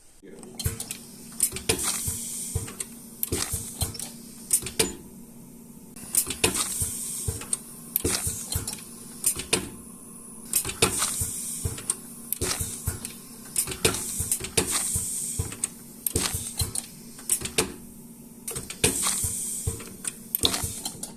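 Pad-printing equipment at work: repeated clicks and knocks over a steady hum, with a rush of hiss that swells about every four seconds.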